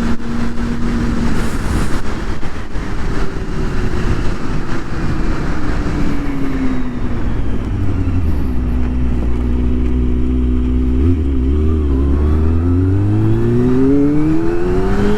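Kawasaki Ninja ZX-25R inline-four engine through a Yoshimura R-77 full exhaust. The engine note falls as the bike slows over the first half and holds low and steady for a few seconds. It then rises as the bike accelerates near the end.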